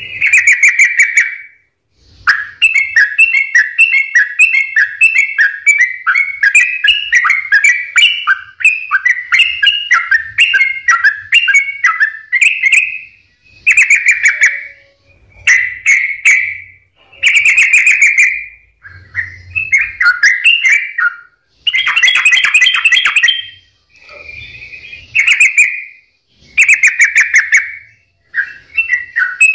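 Sooty-headed bulbul (trucukan) singing loudly in quick, bubbly chirping phrases. A long run of rapid notes is followed by shorter phrases of a second or two with brief pauses between them.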